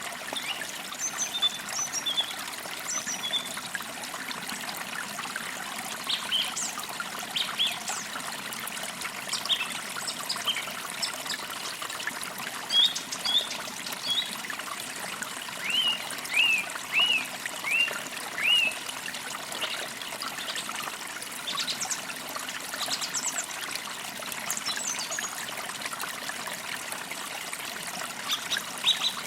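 A forest creek trickling and babbling steadily, with small birds chirping on and off above it. A run of about six short falling notes comes roughly two-thirds of the way through.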